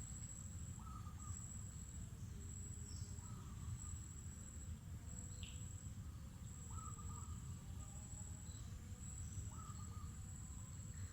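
Insects trilling steadily at a high pitch, with a few short calls repeating every few seconds and one quick falling call about halfway through, over a low rumble.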